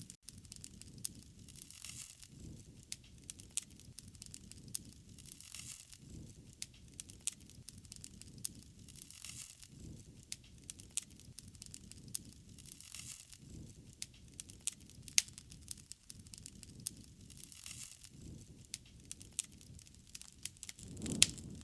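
Wood fire crackling, with frequent sharp pops and snaps over a low rush that swells and fades every few seconds.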